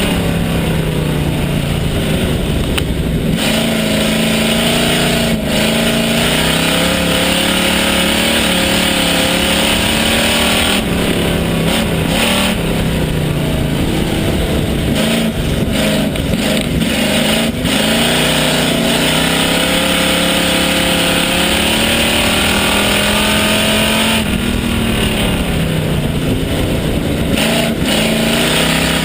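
Pure stock race car's engine heard from inside the car at racing speed, dropping in pitch as the driver lifts for a turn and climbing again as it accelerates down the straight, three times over.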